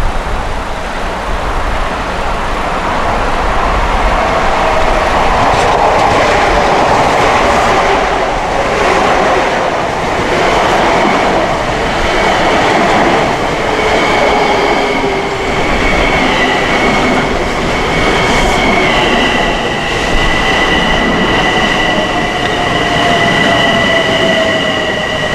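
An LIRR M7 electric train pulling in and slowing. There is steady wheel-on-rail noise and a motor whine that slowly falls in pitch, and from about ten seconds in a steady high brake squeal joins it.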